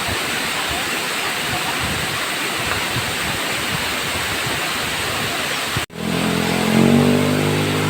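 Waterfall rushing steadily. About six seconds in, the sound cuts off abruptly and gives way to a vehicle engine running, its pitch rising briefly as it speeds up.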